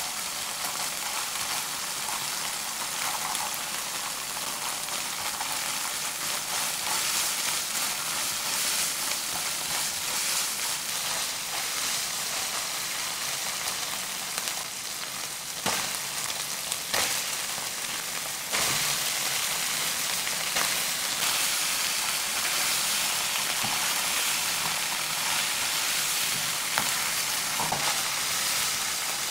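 Ground beef and chili paste sizzling in a hot nonstick frying pan as it is stirred with a silicone spatula, with a few light knocks of the spatula. The sizzle steps up louder about two-thirds of the way through.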